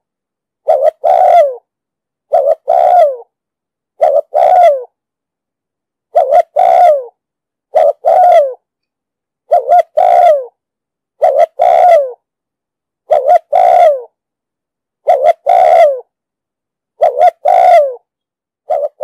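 A spotted dove cooing in a steady repeated series, about one phrase every one and a half to two seconds: each phrase a short note followed by a longer coo that falls away at the end. This is the deep, urging 'thúc gù' coo used as a lure call to draw in wild doves.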